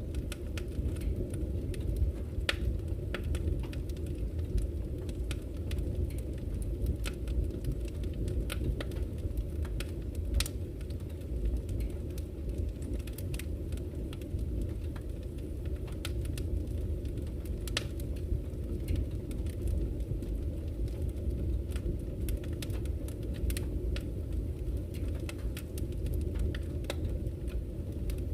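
Wood campfire crackling with frequent irregular sharp pops and snaps, over a steady low rush of flowing river water.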